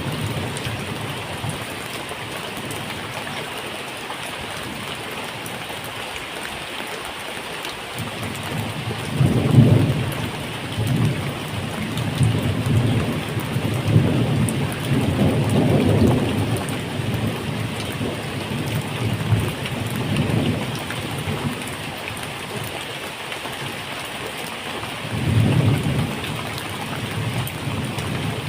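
Steady medium rain with several low rolls of thunder. The strongest rumble comes about a third of the way in, and another swells near the end.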